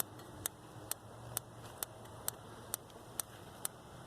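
RV gas absorption refrigerator's electronic spark igniter clicking steadily, a little over two sharp clicks a second, sparking at the burner to light the gas.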